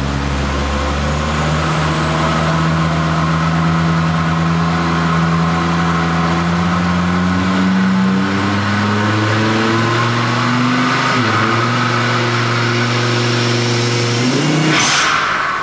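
Volvo 850's turbocharged inline-five engine pulling under load on a chassis dyno, the revs climbing slowly and then more steeply. About fifteen seconds in there is a loud whoosh and the revs fall away as the pull ends.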